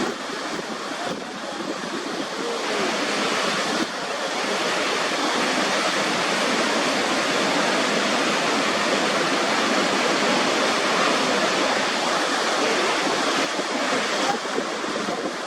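Steady rush of Niagara Falls' water pouring and crashing, a dense continuous roar of falling water.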